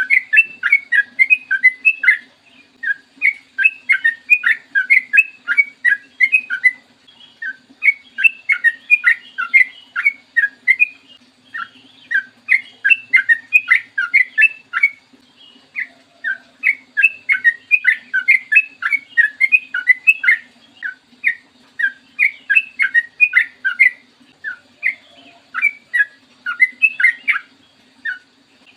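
Yellow-vented bulbul (trucukan) singing in long, rapid runs of quick, bubbling notes, broken by short pauses every few seconds.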